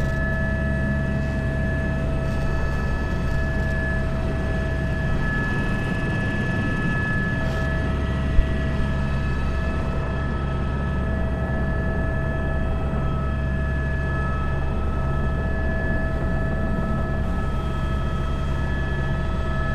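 Airbus H125 helicopter in flight, heard from the cockpit: its single turboshaft engine gives a steady whine of several high held tones over the low, even drone of the rotor. A single sharp click comes about eight seconds in.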